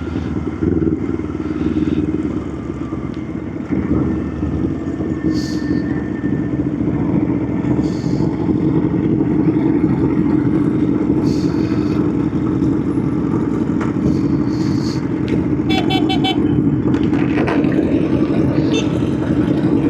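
Motorcycle engine running steadily under way at road speed, over a continuous rush of wind and road noise. A short burst of rapid pulsed beeping comes about three-quarters of the way through.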